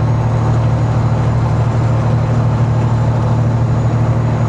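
Semi-truck's diesel engine droning steadily under way, heard from inside the cab.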